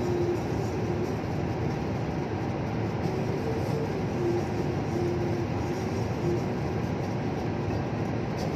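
Steady road and engine noise of a vehicle driving at speed on a highway, with faint short tones stepping in pitch in the background.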